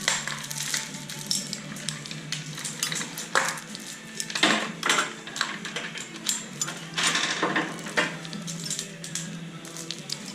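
Metal clinking and clattering from hand tools and parts being handled, a string of sharp clicks with a few longer rasping scrapes, over a steady low hum.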